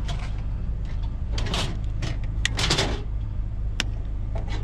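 Steady low hum of a vehicle engine idling, with a few short clattering knocks and rattles as a discarded item is pulled at and handled.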